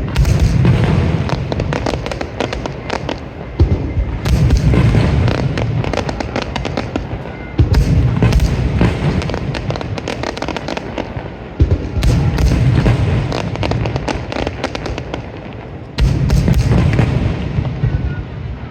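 Fireworks going off in a display: a heavy boom roughly every four seconds, each followed by a few seconds of rumbling, with crackling bursts throughout.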